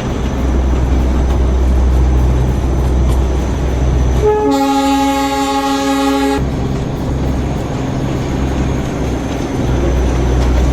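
Narrow-gauge Darjeeling Himalayan Railway diesel locomotive running with a steady low rumble, and one horn blast of about two seconds near the middle.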